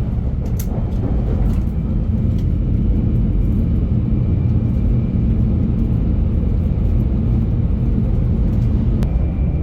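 Steady low rumble of a Shinkansen bullet train running at speed, heard from inside the passenger car, with a couple of faint clicks.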